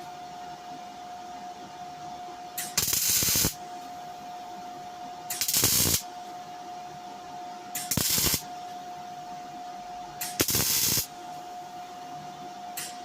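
Welder tack-welding a new steel panel onto an old car wing: four short bursts of arc hiss and crackle, each about half a second long and about two and a half seconds apart, over a steady whine that cuts out during each burst.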